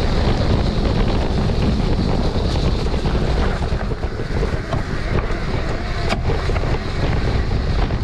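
Wind buffeting the microphone over a steady, loud rushing noise.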